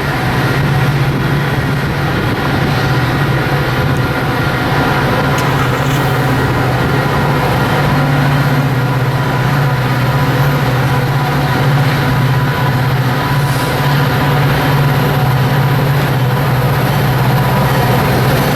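Metra diesel passenger locomotive running with a steady drone that does not change.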